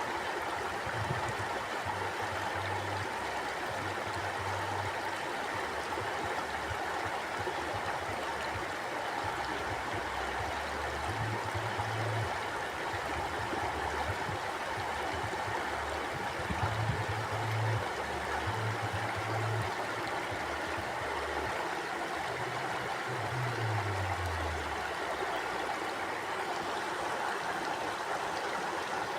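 Mountain stream flowing: a steady, continuous rush of water, with low rumbles coming and going beneath it.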